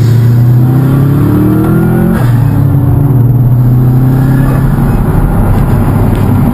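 Turbocharged Subaru WRX/STi flat-four engine in a 1973 VW 1303 Beetle, heard from inside the cabin. It pulls up through the revs, drops in pitch at an upshift about two seconds in, then runs on steadily under load.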